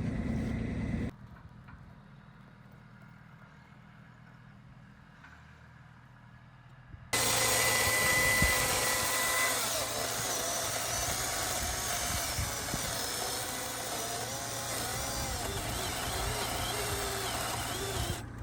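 A quiet outdoor stretch, then from about seven seconds in a Milwaukee M18 cordless chainsaw cutting through a log, its motor pitch dipping and recovering under load. The loud part starts and stops abruptly.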